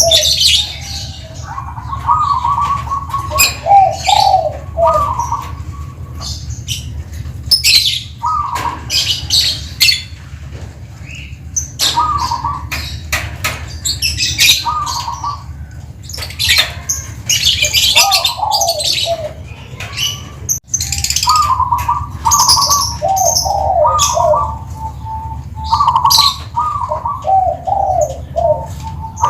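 Zebra dove (perkutut) cooing over and over, each song a short phrase of stepped, rolling notes repeated every few seconds, with sharp high chirps and ticks between the phrases and a low steady hum underneath.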